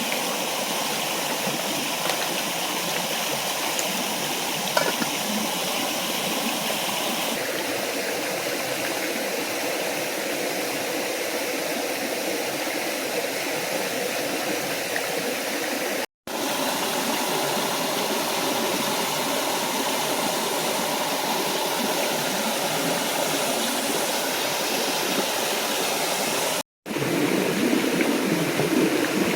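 A small forest waterfall and stream running steadily, a constant rush of water. It breaks off twice into a split-second of silence, and the water grows a little fuller and louder near the end.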